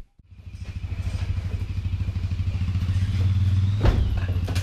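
An engine running steadily with a low, even rumble that builds up over the first few seconds, with a single sharp knock about four seconds in.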